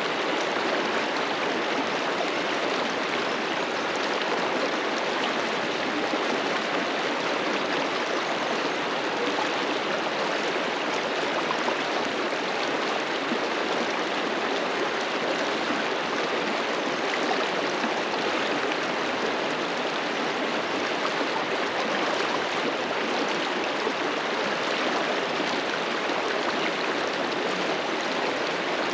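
A fast river running over rocks: a steady rush of flowing water with no breaks.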